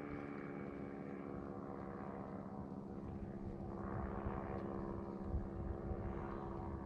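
Propeller aircraft engine droning steadily, its pitch sinking slightly at first, with a few faint clicks.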